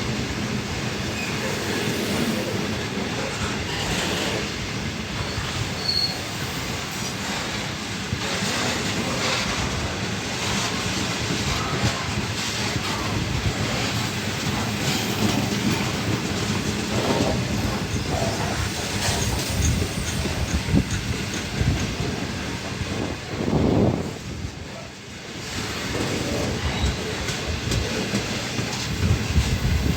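Freight train wagons rolling past at the lineside: a steady rumble of steel wheels on rail with repeated clicks and knocks over the rail joints, some wheel squeal, and a brief drop in loudness near the end.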